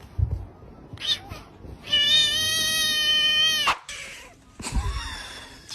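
A kitten gives one long, high meow lasting nearly two seconds, held steady and dropping in pitch as it ends. A few short knocks or rustles come before and after it.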